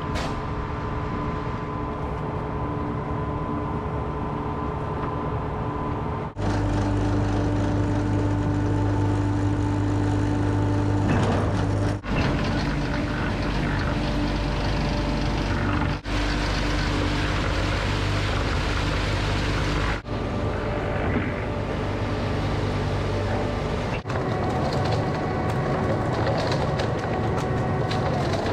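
Heavy diesel engines running steadily while a concrete mixer truck discharges its load into a concrete pump. The sound changes abruptly every four to six seconds, growing louder and deeper after about six seconds.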